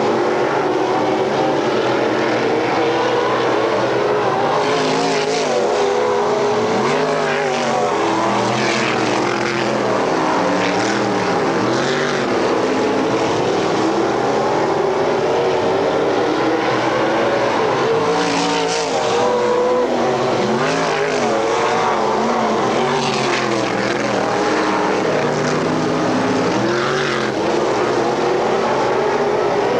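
Several race car engines running at racing speed on a dirt oval, their pitch rising and falling as the cars accelerate and lift off, with a surge every few seconds as cars pass close.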